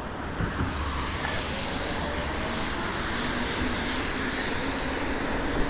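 Steady rushing noise of road traffic on wet roads, swelling slightly and easing again.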